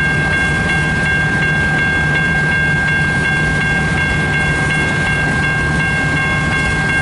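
Freight train cars rolling slowly past with a steady low rumble and some rail clatter, under the ringing of a railroad crossing bell, about three strokes a second.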